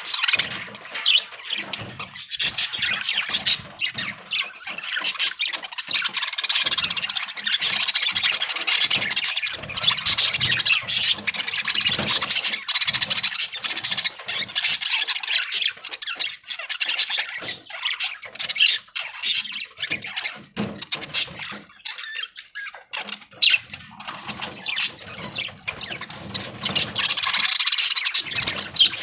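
Flock of budgerigars chattering and warbling, a dense, continuous mass of high chirps and squawks.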